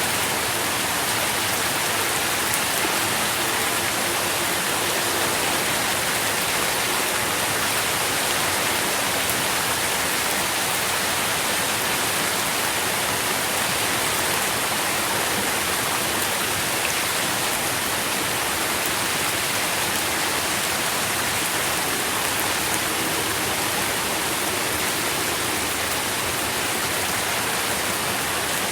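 Steady rain falling, a constant, even hiss of drops.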